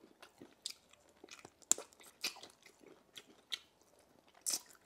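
Close-up chewing and crunching on chicken bone: sharp, irregular crunches and cracks as the bone is bitten and broken between the teeth, with a louder cluster near the end.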